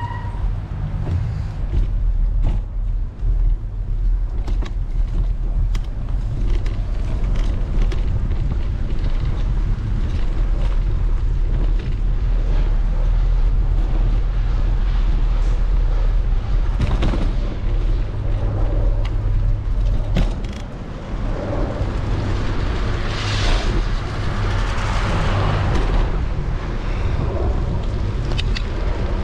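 Riding noise from a bicycle on wet paths in the rain: a steady low rumble of wind buffeting the microphone and tyres rolling, with scattered small clicks and rattles from the bike. About two-thirds of the way through, a louder hiss swells and then fades.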